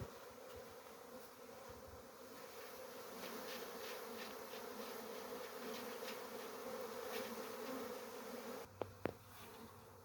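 Honeybees buzzing in a steady hum. Near the end come two sharp clicks, after which the hum drops off.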